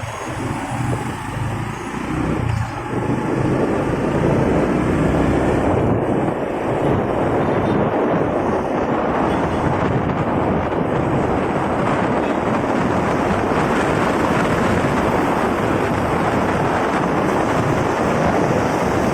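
Riding motorcycle: the engine is heard at low speed for the first few seconds, then wind rushing over the microphone rises by about four seconds in and holds steady, mostly covering the engine.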